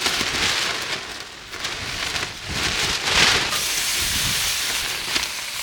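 Bok choy sizzling in a hot pan over a campfire, in the sauce and pork fat left from the previous dish. The sizzle swells and eases in surges, loudest about three seconds in, with a few low knocks.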